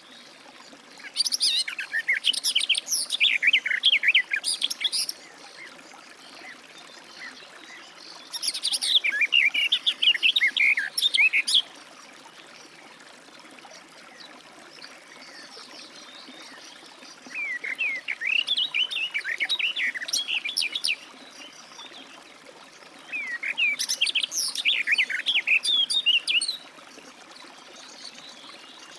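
Garden warbler singing: four long bouts of fast, rich warbling, each lasting about four seconds, separated by pauses of a few seconds.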